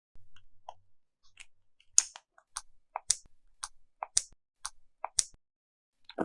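Slime being worked by hand, giving a run of sharp clicks and pops: a few faint ones at first, then louder ones about two a second, often in close pairs.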